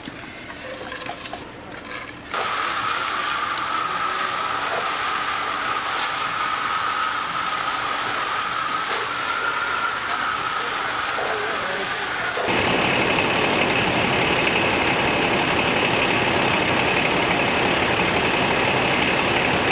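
A machine engine starts running about two seconds in, steady with a whine. About twelve seconds in it jumps louder with a higher-pitched whine and keeps running.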